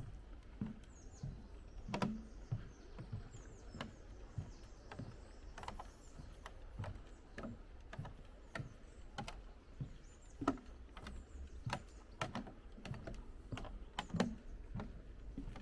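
Footsteps on a footpath at a steady walking pace, each step a short crunchy knock, with faint birdsong in the first few seconds.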